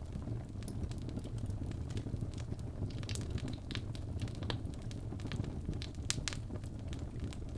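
Wood fire burning in a fireplace: a steady low rumble of flame with irregular crackles and pops, a few sharper snaps in the middle.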